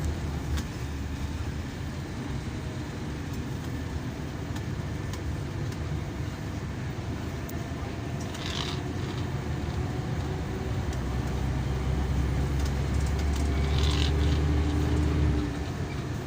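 Inside a Scania K340EB coach under way: a steady low diesel engine drone with road noise. The engine note builds over several seconds and drops off near the end, and there are two short hisses, one about halfway through and one near the end.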